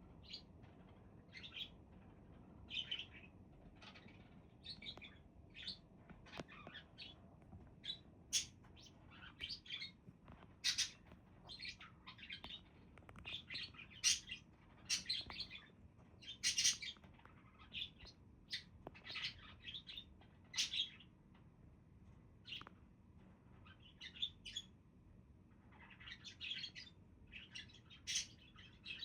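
Pet budgerigars chirping and chattering, with a string of short, quick calls that come a few every second.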